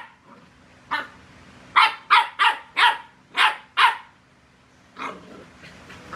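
A dog barking: one bark about a second in, then a run of six quick barks, and a fainter one near the end.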